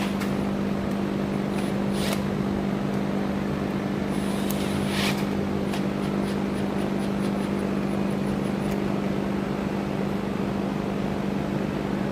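Cordless drill running at a steady speed while drilling a hole in the steel rear trunnion of an AK-pattern pistol. Two brief sharp sounds come about two and five seconds in.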